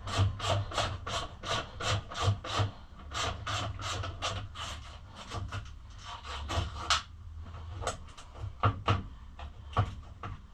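Ratchet wrench worked back and forth in quick strokes, about three a second, loosening a pit bike's muffler bolt. After about seven seconds it slows to a few single strokes.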